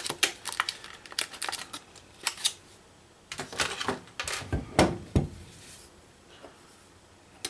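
Metal rifle parts being handled: a quick run of light clicks and taps for the first two seconds or so, then a few louder knocks around the middle, as a Picatinny scope rail is set on a Ruger 10/22 receiver.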